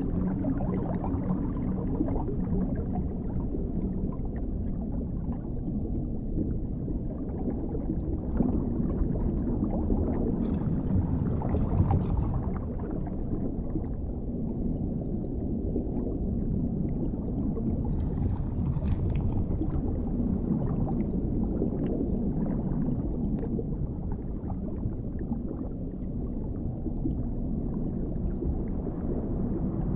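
Underwater ambience: a steady, muffled low rumble that slowly swells and fades, with faint gurgles and bubbly flecks here and there.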